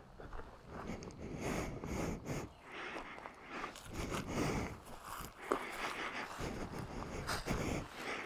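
Heavy breathing close to the microphone, in irregular puffs, with a single sharp click about five and a half seconds in.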